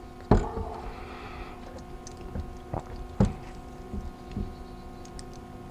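Scattered clicks and taps of a small wrench and metal parts as a nut is fitted back onto a car starter motor, the loudest about a third of a second in, over a steady faint hum.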